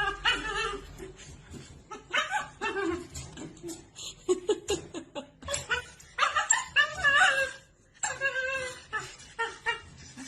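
A dog vocalizing in a run of short, pitch-bending calls, with people laughing.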